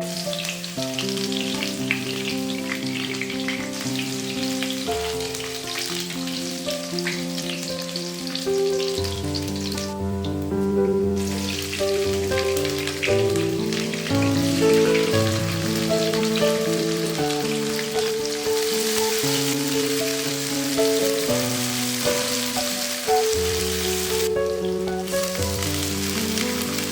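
Food frying in hot oil in a pan, with a steady sizzle and crackle over background music. The sizzle drops out briefly twice.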